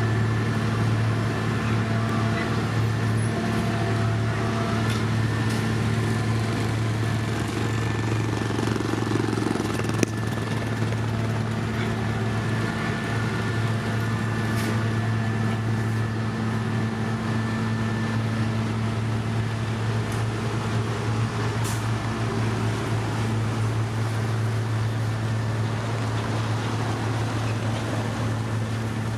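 Diesel engine of heavy road-construction machinery running at a steady speed, a constant low drone, with a few faint knocks.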